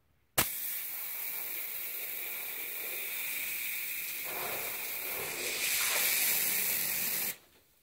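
Black Flag wasp and hornet aerosol spray shooting one long continuous jet, a steady hiss lasting about seven seconds, begun with a sharp click and cut off suddenly.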